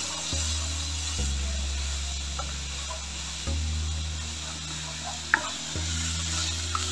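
Chopped onion and ginger-garlic paste sizzling in a nonstick pan while a wooden spatula stirs and scrapes, with a sharp knock of the spatula against the pan about five seconds in. A low steady hum runs underneath.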